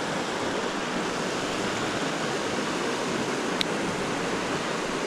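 Steady rush of creek water flowing, with one small click about three and a half seconds in.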